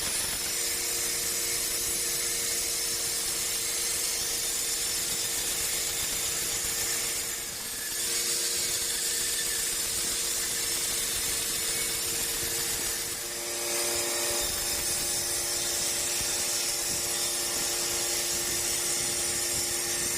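Sawmill saw running and cutting dry teak wood, a steady loud hiss over a constant two-tone machine hum, easing briefly about a third of the way in and again past halfway.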